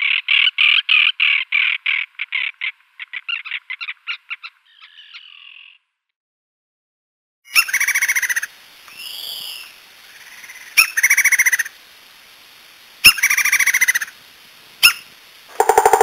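Bird's rapid chattering run of short notes, speeding up and fading over about five seconds. After a pause of about two seconds comes a series of loud calls, each about a second long, repeated every two or three seconds.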